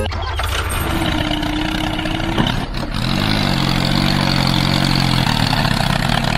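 A miniature DIY tractor's engine running steadily, with a low drone and a pitched hum that rises and settles about three seconds in.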